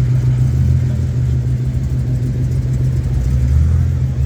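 Car engine running at idle, a steady low rumble that swells a little twice.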